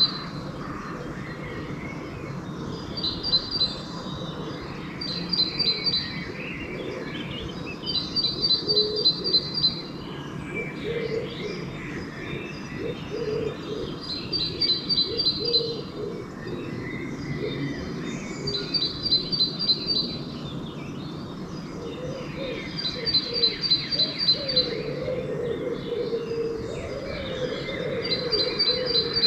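Dawn chorus of songbirds: one bird repeats a short, rapid high-pitched trill every few seconds over scattered chirps from other birds. Low cooing of a pigeon sits underneath, clearer near the end.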